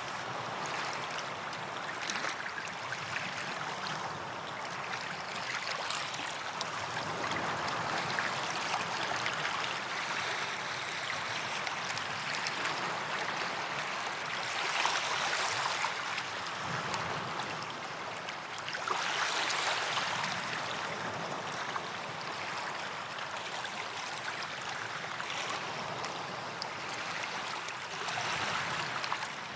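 Small sea waves washing onto a white-sand beach: a steady wash of water with several louder swells as waves break and run up the shore.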